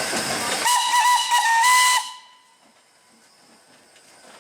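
Steam locomotive whistle sounding over a loud hiss of steam: a few short wavering blasts run into one held note, and whistle and hiss stop together suddenly about two seconds in.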